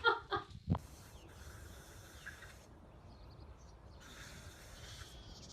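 An animal hissing twice, each hiss a breathy rush lasting about one to one and a half seconds, a few seconds apart. A short low thump comes just before the first hiss.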